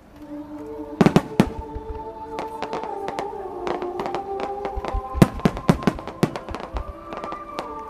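Starmine fireworks firing in rapid salvos, sharp bangs and crackles over held music. The loudest bangs come about a second in and again near the middle.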